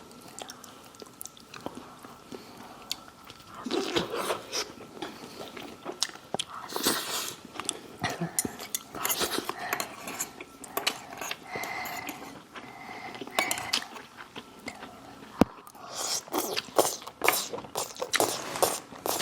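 Close-up eating sounds: chewing and crunching food, with utensils clicking and clinking against plates in scattered short strokes.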